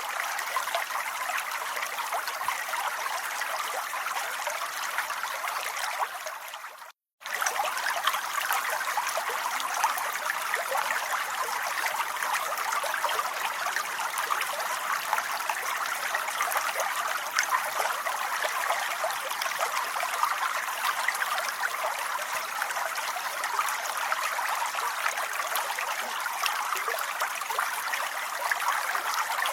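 Steady rain, a dense hiss of many drops. It fades out to a moment of silence about seven seconds in and comes straight back.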